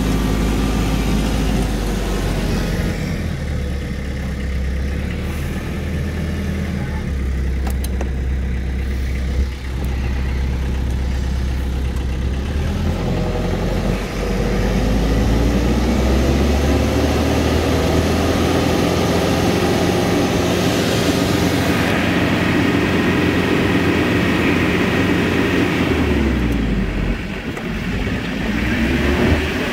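Diesel engine of a TYM 574 HST tractor running steadily, its speed rising about halfway through and dropping back near the end.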